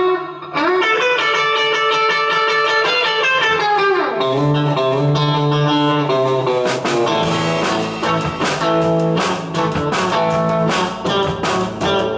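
Guitar-led rock music: a held, bending guitar line opens, then a steady rhythm of low notes and sharp struck beats comes in about four seconds in.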